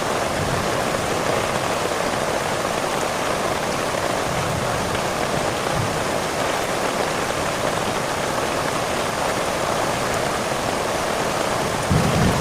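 Heavy rain falling with a steady hiss. Near the end a low rumble of thunder begins.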